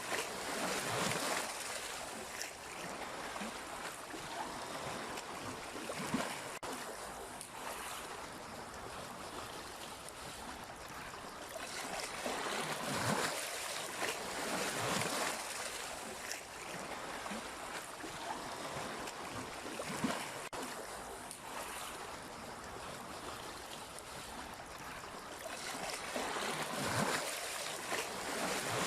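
Sea waves washing ashore: a continuous rushing of water that swells and ebbs every few seconds.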